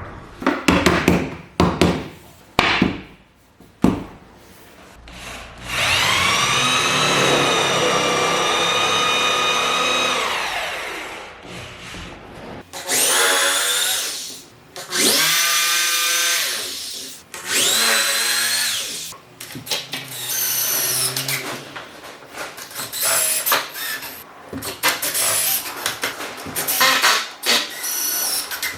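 A power drill running in bursts into wood: one long steady run of about four seconds, then several shorter runs that spin up and wind down. There are knocks and clatter from handling the wood and tools at the start and near the end.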